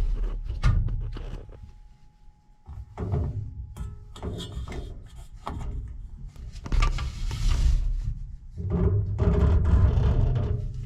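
Sheet-metal duct being worked loose by hand: hollow metal clunks, rattles and scraping in several bursts.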